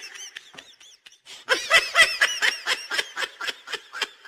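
Laughter: a quick run of short, high-pitched laughing bursts, starting about a second and a half in and trailing off near the end.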